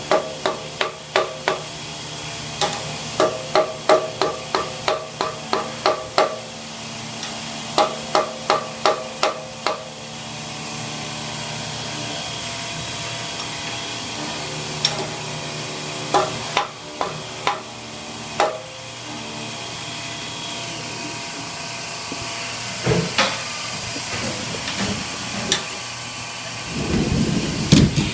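Hammer tapping on metal in quick runs of ringing strikes, about three a second, with pauses between the runs. A steady hum from a Haas CNC machine runs underneath.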